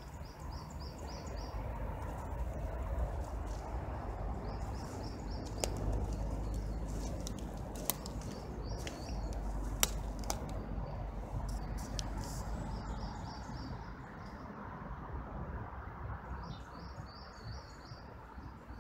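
A small songbird singing short phrases of four or five quick high notes, repeated several times, over a low steady rumble with a few scattered clicks.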